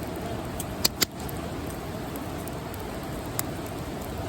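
Campfire burning with a steady hiss, broken by a few sharp pops, two close together about a second in and another near the end.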